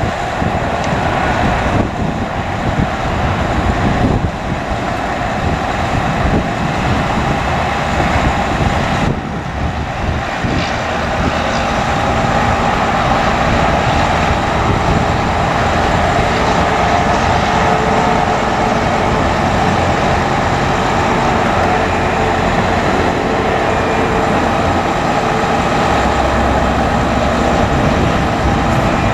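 Diesel engine of a Hino 338 bucket truck running steadily, with a dense mechanical drone that grows somewhat louder about ten seconds in and holds there.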